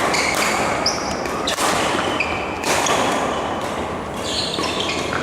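Badminton rally in a large hall: several sharp racket hits on the shuttlecock, with short high squeaks of shoes on the court floor between them.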